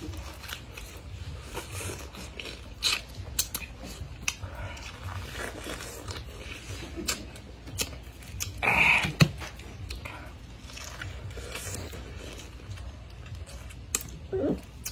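Biting into and chewing a whole fresh pineapple, rind and all: irregular crisp crunches, with a louder, longer crunching stretch about nine seconds in.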